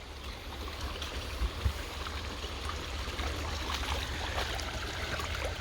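Shallow creek water running and trickling, with a steady low rumble underneath.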